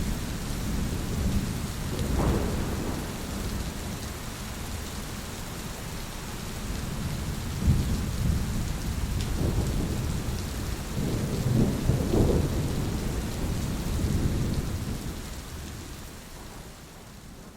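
Thunder rumbling over steady rain. Rolling peals swell about two seconds in and again around eleven to twelve seconds, then the rumble dies away near the end while the rain keeps hissing.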